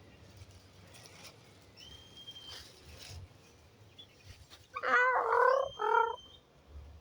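Young chickens calling: a few faint high chirps, then two loud raspy calls near the end, the first nearly a second long and the second shorter.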